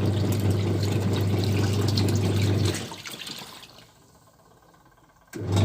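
Sharp ES-T85CR twin-tub washing machine agitating a rinse load: motor hum with water churning in the wash tub. About three seconds in the motor cuts out and winds down to near quiet, then starts again abruptly near the end, the pulsator pausing between runs.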